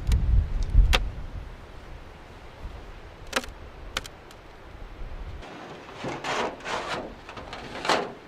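Beehive parts being handled in wind: gusts buffet the microphone at first, then a few sharp knocks, and scraping and rustling in the last couple of seconds as the hive's covers and parts are shifted.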